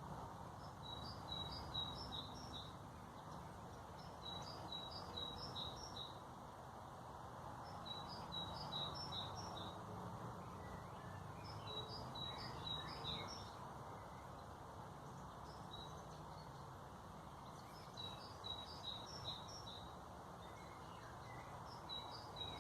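A songbird singing a short phrase of several quick high notes, repeated every three to four seconds, over a steady low background hum.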